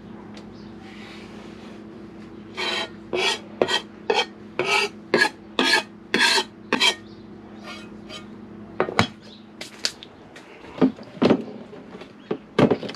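About ten rasping scrapes, roughly two a second, followed by a few sharp clicks and knocks, over a steady low hum.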